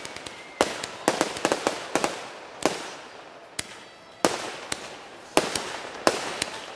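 Fireworks bursting in quick, irregular succession: about a dozen sharp bangs, each trailing off in an echo, with a short lull about halfway.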